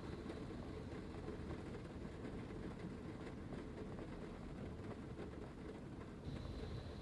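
Heavy rain pattering and drumming on the roof and body of a Toyota HiAce van, heard from inside as a dense, steady patter with a low rumble. Near the end the low rumble swells and a faint high whine comes in.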